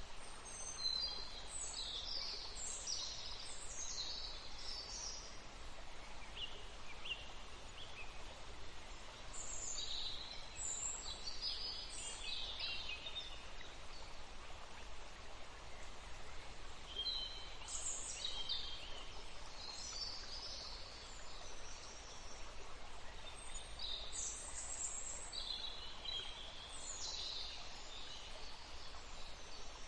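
Songbirds singing: four spells of quick, high chirping and trilling phrases over a steady background hiss.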